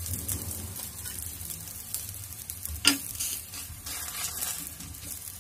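Oil sizzling under a stuffed aloo paratha frying on a hot tawa, with a steel spatula pressing and moving it. One sharp click about three seconds in.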